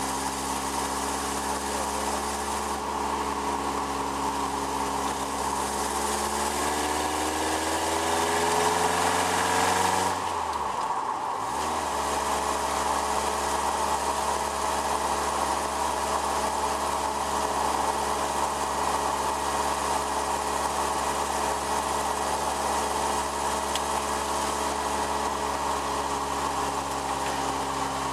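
Open-wheeled sports car's engine heard from on board, rising in pitch as the car accelerates, then dropping sharply about ten seconds in as a gear is changed, and afterwards running at a steady pitch at cruising speed.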